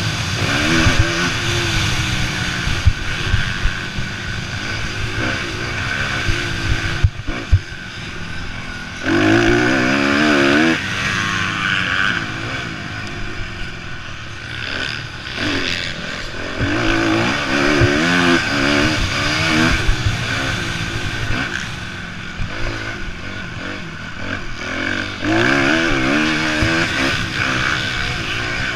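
Motocross bikes racing, their engines revving up and down through the gears. Louder close passes come about a third of the way in, past the middle, and near the end.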